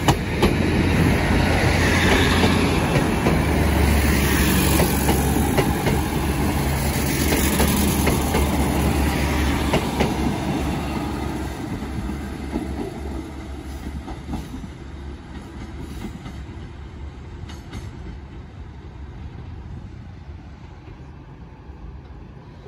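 Four-car Class 156 diesel multiple unit (two coupled units) passing close by, its underfloor diesel engines running and wheels clicking over the rail joints, then fading steadily as the train draws away.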